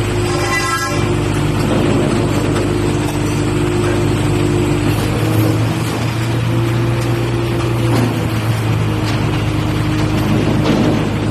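Boom crane truck's engine running steadily, with a brief high tone in the first second.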